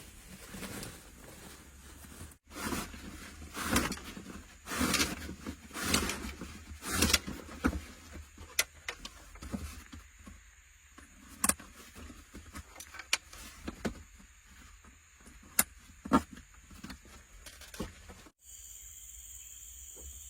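Camp handling noises: irregular rustling and knocks with several sharp clicks. Near the end, after an abrupt cut, a steady high-pitched insect chirring.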